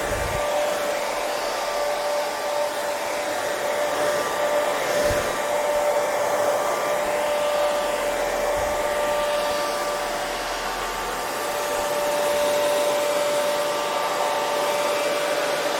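Hair dryer running steadily: an even rushing of air with a constant motor whine on top.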